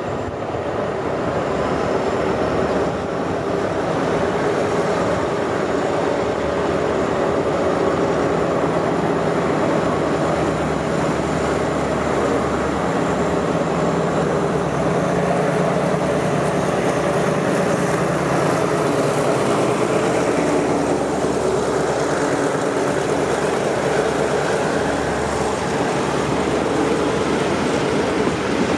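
Diesel locomotive hauling a passenger train past at close range. The engine's drone is strongest around the middle, then the carriages' wheels roll steadily over the rails as they go by.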